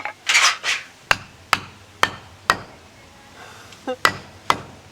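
A blade being struck into a piece of firewood to split it: six sharp knocks, about two a second, with a pause in the middle. The wood is not splitting, which the camper puts down to the wood being too hard rather than the blade being dull.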